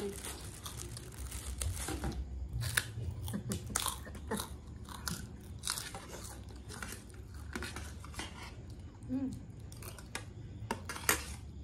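Chewing and biting into crunchy kerupuk crackers, a run of irregular crisp crunches, with spoons clinking and scraping on a metal serving tray.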